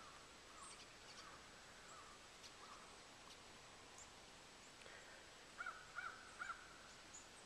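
Crows cawing faintly at a distance over quiet outdoor air, with a quick run of three caws near the end.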